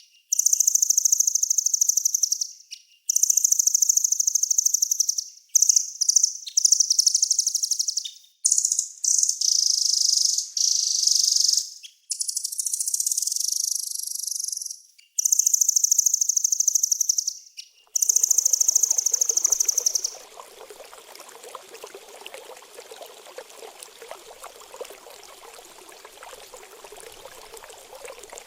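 Small songbird singing rapid, very high-pitched buzzy trills in repeated bursts separated by short pauses, as played for training cage birds. A little under twenty seconds in, it gives way to a steady sound of running, pouring water.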